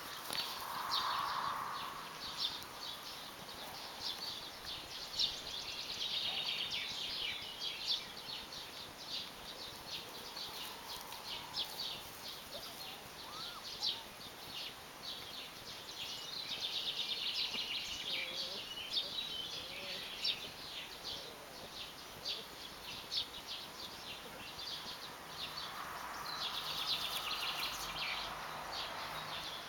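Birds chirping and singing in quick repeated phrases over a steady background hiss.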